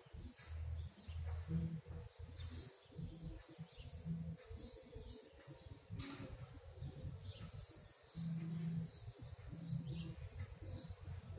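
Faint chirps of small birds, short calls repeated irregularly, over a low rumble.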